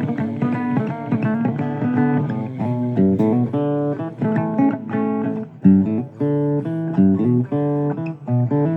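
Blues guitar playing an instrumental passage between sung lines: a run of plucked, sustained notes that changes every fraction of a second.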